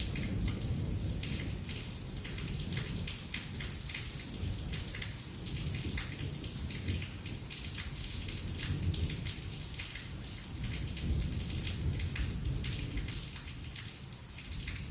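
Heavy rain pouring down during a thunderstorm, a steady hiss dense with the taps of individual drops striking close by. A low rumble rises and falls underneath.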